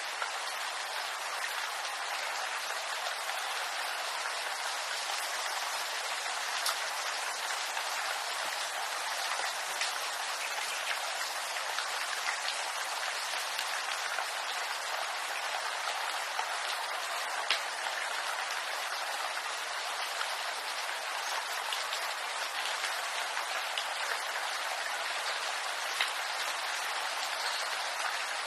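Steady rain falling on bamboo, an even hiss with scattered sharper drop ticks.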